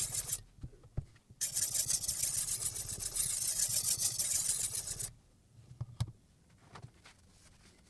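Silicon carbide water stone on a guided sharpening system scraping along the steel edge of a Damascus chef knife in fast, even back-and-forth strokes: a hissy, high-pitched grinding that pauses for about a second shortly after the start, resumes, and stops about five seconds in, followed by a few light clicks.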